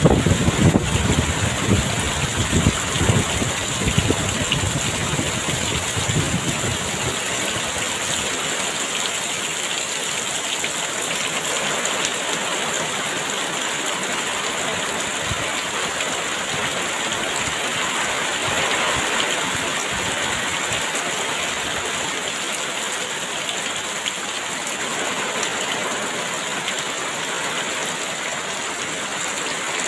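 Heavy rain falling steadily in an even hiss. Gusts of wind add a rumble for about the first six seconds, then the rain goes on alone.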